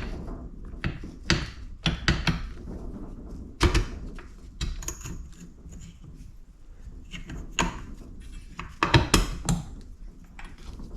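Irregular knocks and clinks of a metal engine side cover being set onto the crankcases and pushed down over its gasket and locating dowels, with a few sharper knocks about four seconds in and near the end.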